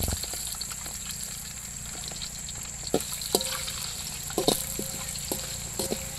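Whole spices, cinnamon and cloves, sizzling in hot oil in a metal pan, with a steady hiss. A metal ladle knocks and clinks against the pan several times in the second half.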